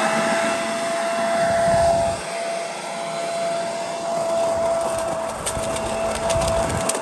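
Corded electric leaf vacuum-mulcher running at full speed: a steady motor whine over a rush of air. From about five seconds in, scattered ticks and rattles join it.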